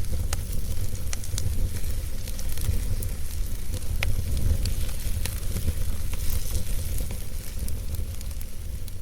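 Wood fire burning, a steady hiss with scattered sharp crackles and pops over a low rumble.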